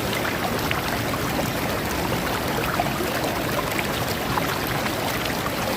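Sea water washing over a pebble beach: a steady rush of surf with many small clicks of stones rattling against each other.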